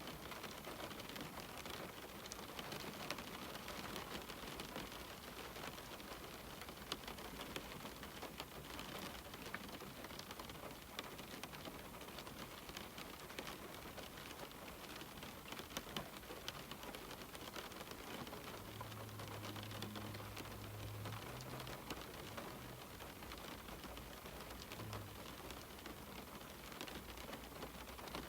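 Steady rain falling on a window pane: a continuous even hiss dotted with many small drop ticks. A faint low hum comes in for about two seconds a little past the middle.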